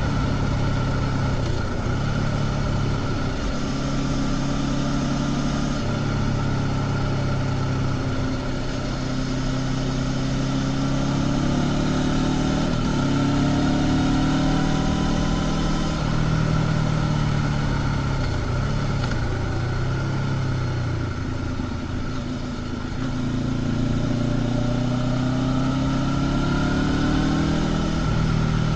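Honda CB500X's parallel-twin engine with its stock exhaust running under way, its pitch stepping and gliding up and down with the throttle.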